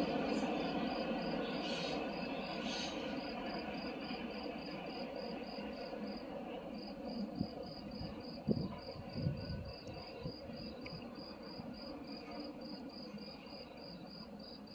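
Freight train's rumble fading away as it recedes down the line, with a few low knocks about halfway through. Over it an insect chirps steadily, about three short pulses a second.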